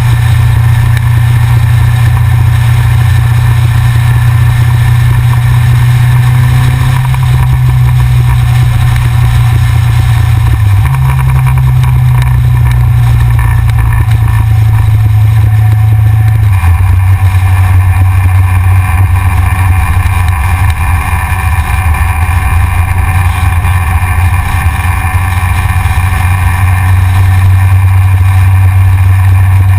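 Yamaha XJR motorcycle's inline-four engine running under way, with wind rumble on a front-mounted camera. The engine note shifts twice, dropping lower a little past halfway.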